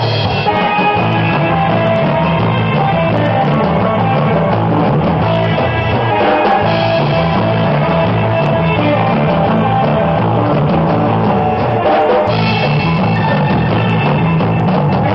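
Live instrumental surf rock band playing: electric guitars over bass and a drum kit, loud and steady.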